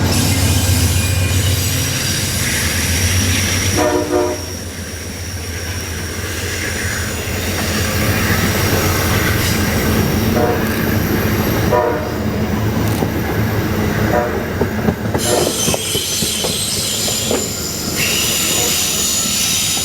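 Amtrak train rolling through a work zone with a steady low rumble, its horn sounding short blasts about four seconds in and again around ten seconds in: warning blasts for the crew and equipment on the track. A high steady squeal from the wheels comes in near the end.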